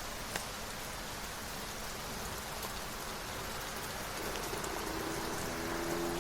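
Steady rain pattering on a surface, with one sharp tick of a drop about half a second in. A faint pitched tone of a few notes joins in near the end.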